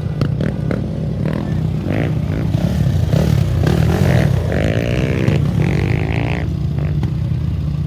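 Motorcycle engine running steadily, with some short clatter and what may be a voice or a brief rev in the middle.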